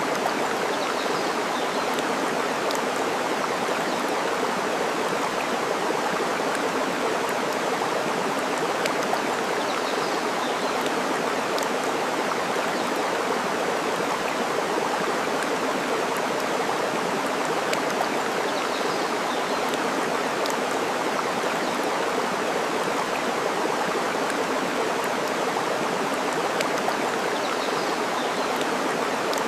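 Steady rush of flowing water, with faint pops of burning wood now and then and a few faint bird chirps.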